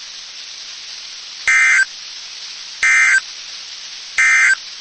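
Three short digital data bursts of an Emergency Alert System broadcast, about a second and a half apart, high and buzzy, over steady radio hiss: the end-of-message code that closes a weather radio warning.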